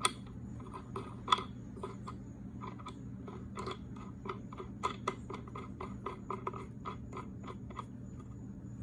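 Light irregular metallic clicks, taps and scrapes of a crankshaft installer tool's collar and nut being fitted onto the end of the crank, the sharpest click about a second in, over a steady low hum.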